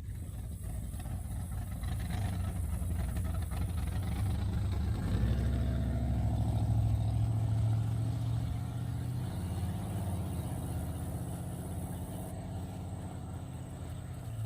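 A car's engine rumbling as the car pulls out and drives past, growing louder about a third of the way in, then slowly fading as it moves away.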